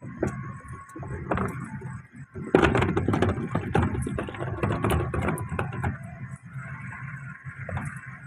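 Rail vehicle running, with dense rattling and clattering over a low rumble that is loudest from about two and a half to six seconds in.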